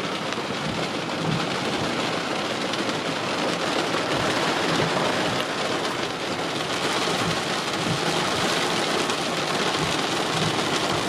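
Heavy thunderstorm rain pouring down in a dense, steady hiss, with many fine drop impacts.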